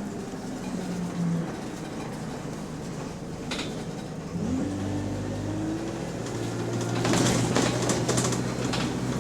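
Diesel bus drivetrain heard from inside the saloon. The engine note falls, then about four seconds in rises as the bus pulls away. From about seven seconds in, a loud rattly noise joins the steady engine note. This bus has a known exhaust leak.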